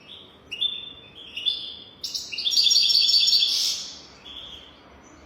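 European goldfinch singing: a few short, separate notes, then a loud, rapid, tinkling twitter lasting nearly two seconds, and one last fainter note.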